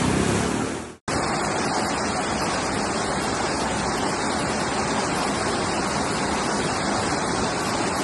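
Fast-flowing floodwater rushing as a steady, even noise. It cuts out briefly about a second in, then carries on unchanged.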